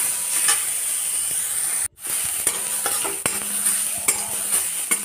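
Grated carrot sizzling as it fries in ghee in a metal kadai, with a steel spatula scraping and knocking against the pan as it is stirred. The sound drops out for a moment about two seconds in.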